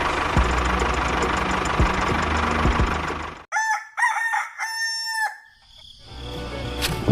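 A steady mechanical running noise with a low hum, like a small motor, stops suddenly about three and a half seconds in. A rooster then crows for about two seconds.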